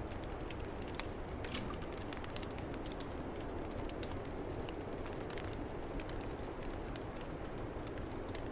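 Wood fire crackling in a fireplace, with irregular sharp pops scattered through it, over a steady low rush of snowstorm wind.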